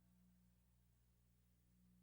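Near silence: a pause between verses of Quran recitation, with only a faint steady hum.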